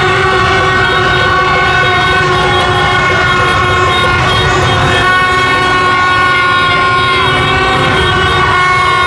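Many horns sounding at once in a dense, continuous chorus of held notes, over the low rumble of motorbike engines in a street celebration crowd.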